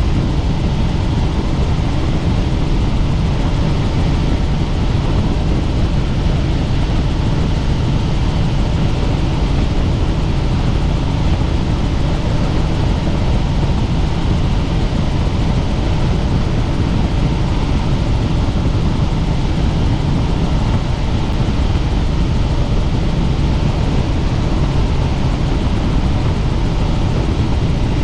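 Helicopter in flight: steady, loud rotor and engine noise, unchanging throughout.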